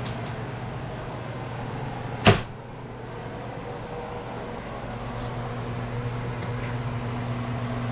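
A steady electric appliance hum, with one sharp knock a little over two seconds in.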